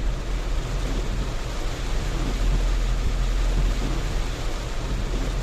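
Steady road and rain noise inside the cabin of a moving Renault Triber in heavy rain: a deep, even rumble under a constant hiss of rain and wet tyres.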